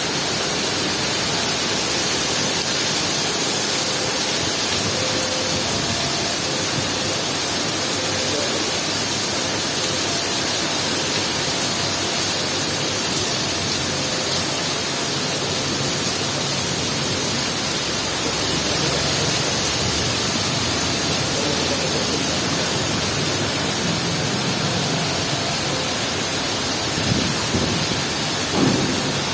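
Heavy rain falling steadily, a dense unbroken hiss, with two brief faint knocks near the end.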